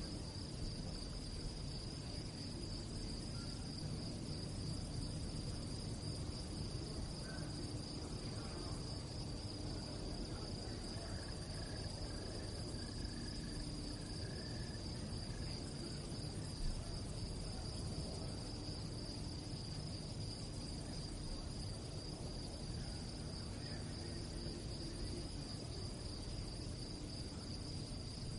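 Night-time crickets singing in a chorus: a continuous high trill with a slight even pulse, over a low background rumble.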